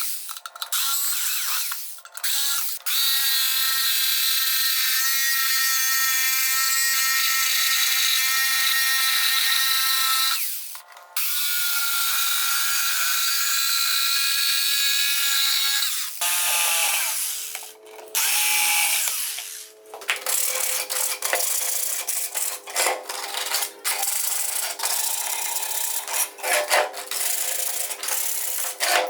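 Small electric drill or rotary tool running in long steady spells with a high whine, stopping and starting. Later it runs in shorter bursts mixed with clicks and scraping.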